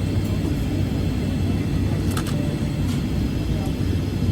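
Airliner cabin noise: a steady low rumble of the jet engines and airframe with a constant low hum.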